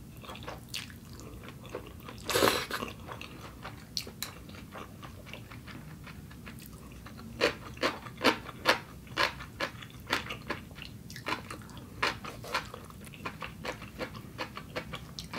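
Close-miked eating sounds: a person chewing a mouthful of noodles, with a run of short wet mouth clicks and smacks, coming two or three a second in the second half, and one louder noise about two and a half seconds in.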